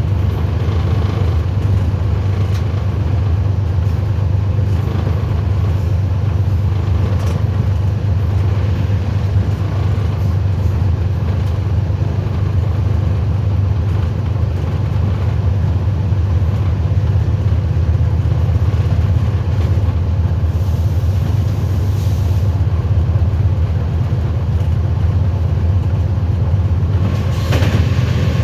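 Train running, a steady low rumble with a brief louder clatter near the end.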